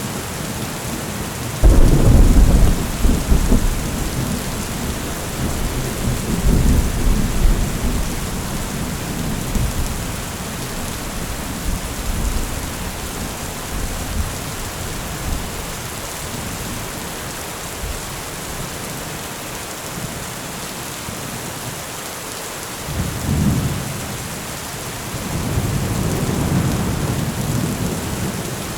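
Steady rain falling through a thunderstorm. About two seconds in, a sudden loud thunderclap rumbles away over several seconds, and more rolls of thunder come near the end.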